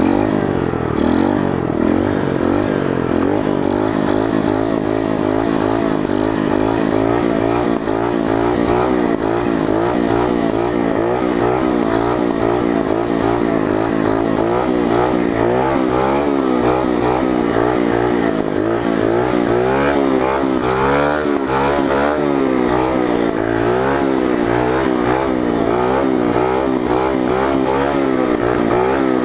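Coolster 125 pit bike's single-cylinder four-stroke engine running under throttle in first gear, its pitch rising and falling over and over as the throttle is worked. The swings grow quicker and deeper in the second half.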